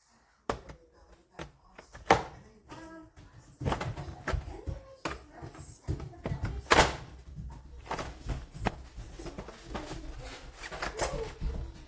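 Irregular knocks and thuds, with a low rumble setting in a few seconds in.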